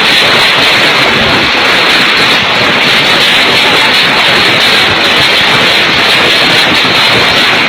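Heavy hail falling, a loud, steady, dense clatter of countless stones striking hard surfaces.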